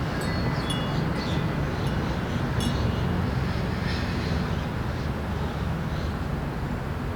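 Small wind chime ringing in a breeze, struck several times in the first few seconds and then thinning out, over a steady low hum of city traffic.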